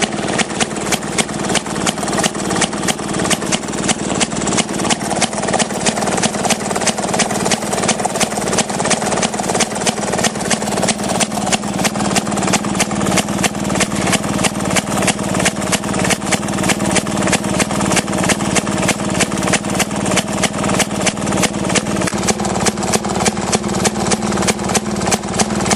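Maytag Model 31 single-cylinder two-stroke engine running steadily with an even, rapid popping exhaust beat, driving a vintage Maytag wringer washer in gear as it agitates a load of wash.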